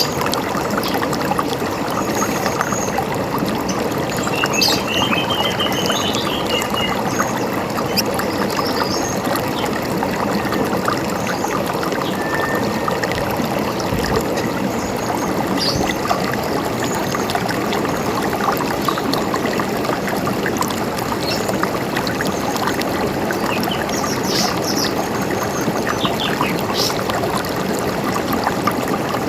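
River water running steadily over rocks, with small birds chirping now and then above it, including a short trill about five seconds in.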